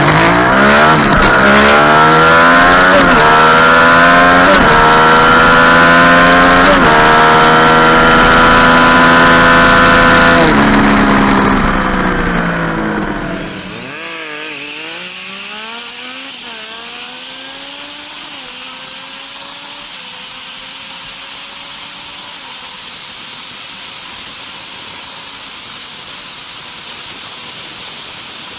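Yamaha MT-09 (FZ-09) three-cylinder engine accelerating hard, its pitch climbing and dropping at several quick upshifts in the first seven seconds, then held high and rising slowly in top gear. About eleven seconds in it falls away and the sound drops sharply, leaving a fainter engine rising through a few more gears under a steady rush of wind noise.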